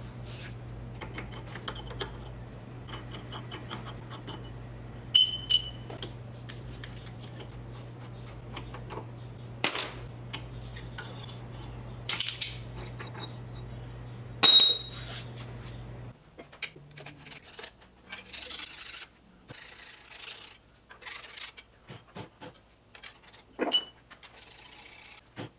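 Metal hand tools clinking and ringing against iron engine parts, with sharp clicks and a few louder clanks, as an old engine is worked on. A steady low hum runs under it and stops about two-thirds of the way in, leaving softer scraping and rubbing.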